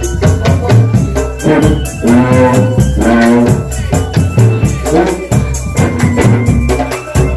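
Drum band playing loudly: a fast, even drumbeat with jingling percussion, and a pitched melody line that comes up over the drums about two seconds in.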